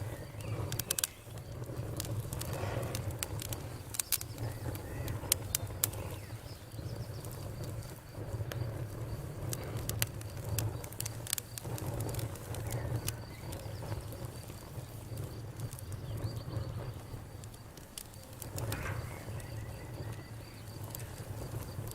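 Campfire crackling, with sharp snaps at irregular moments over a low steady rumble.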